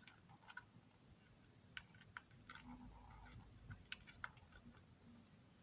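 Faint, scattered light clicks and taps of small model railroad car parts being handled, with a low background hum.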